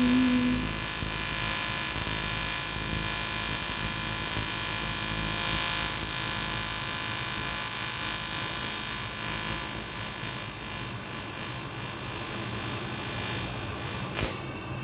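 AC TIG welding arc on aluminium buzzing steadily, then cutting off with a click about fourteen seconds in.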